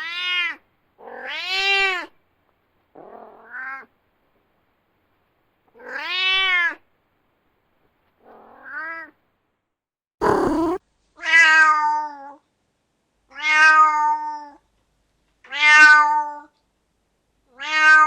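Domestic cat meows, about nine separate calls with short silences between, some rising and falling in pitch and the later ones held more level. A short, harsh, noisy sound comes a little past the middle.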